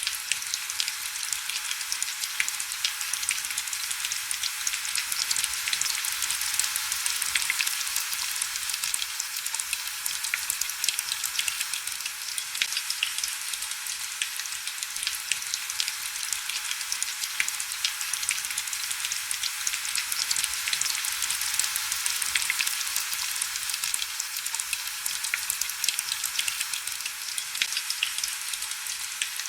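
Heavy rain falling steadily: a dense, even patter of drops, mostly high-pitched with little low rumble.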